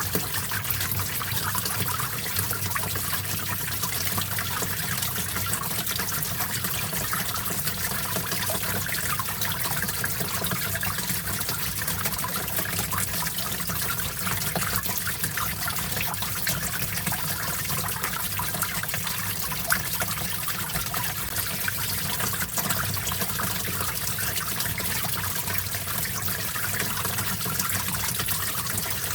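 Small stream flowing steadily, its water trickling and splashing over stones in a constant, even babble.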